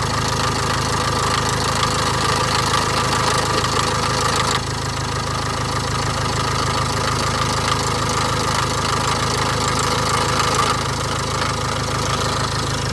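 Land Rover Discovery Ingenium diesel engine idling after a cold start with a steady clattering rattle, the cold-start rattle it is being recorded for. The upper part of the noise drops a little about four and a half seconds in and again near the end.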